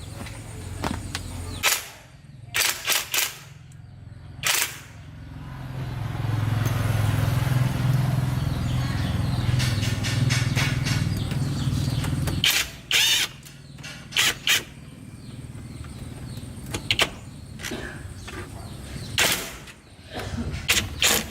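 Metal tools clanking and knocking on car parts, a dozen or so sharp strikes in small clusters. In the middle a machine runs with a steady low hum for about six seconds, then cuts off abruptly.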